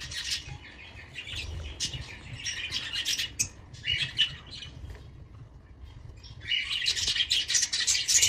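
Budgerigars chirping and chattering in short, quick calls, growing into a busier, louder chatter about six and a half seconds in.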